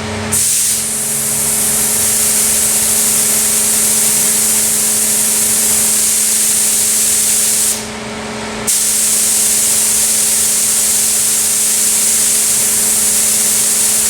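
Cheap air spray gun run at about 30 psi, spraying Rust-Oleum black enamel with a steady loud hiss of air. The trigger is let off for just under a second about eight seconds in.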